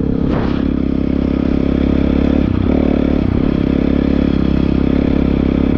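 Honda CRF450R dirt bike's single-cylinder four-stroke engine running steadily, with a brief change in its note about two and a half seconds in.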